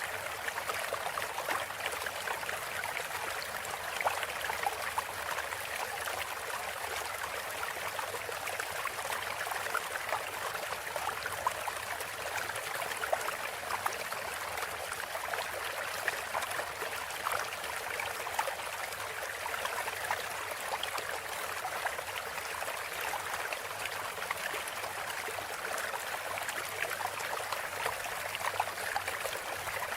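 Steady flowing-water sound of a trickling stream, an even splashing hiss.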